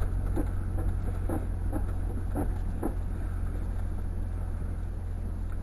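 Jeep engine running with a steady low rumble heard from inside the cabin as it crawls along in four-wheel drive, with a few short creaks from the vehicle in the first three seconds.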